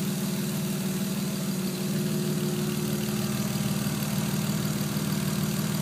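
Toyota Supra Twin Turbo's 2JZ-GTE straight-six idling steadily, its ignition wired through a temporary homemade IGF signal circuit.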